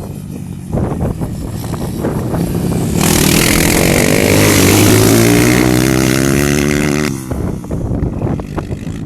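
Dirt bike engine running under throttle. About three seconds in it suddenly gets much louder, climbing in revs and holding high for about four seconds. It then drops back abruptly to a lower running sound.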